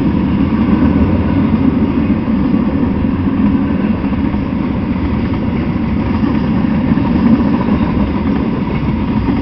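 Freight train rolling past, a steady low rumble of wheels on rails.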